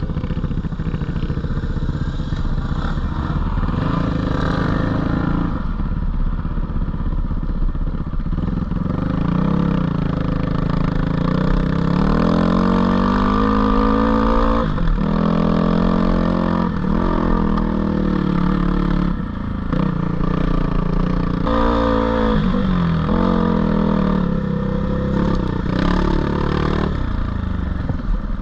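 Four-stroke single-cylinder engine of a GPX 450 dirt bike under way on trail, its pitch repeatedly climbing under throttle and dropping as the rider backs off or shifts.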